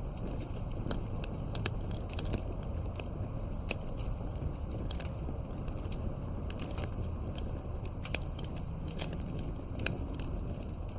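Wood campfire burning, crackling with frequent sharp irregular pops over a low steady rumble of the flames.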